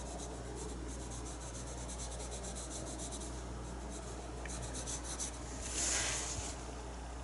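A paintbrush dabbing acrylic paint onto a painting surface in quick, repeated short strokes, then one longer, louder swipe about six seconds in, over a steady low electrical hum.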